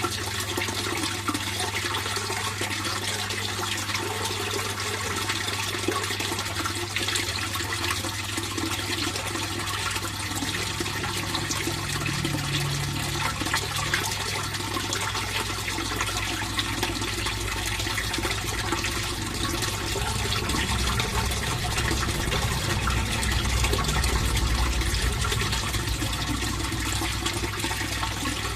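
Fish pond water flowing and splashing steadily, with a low steady hum underneath that swells a little past the middle.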